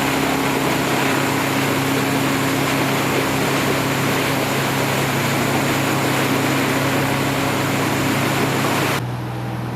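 Motorboat engine running steadily at low speed, with a dense rushing hiss over it. About nine seconds in the sound cuts abruptly to a quieter, lower engine hum.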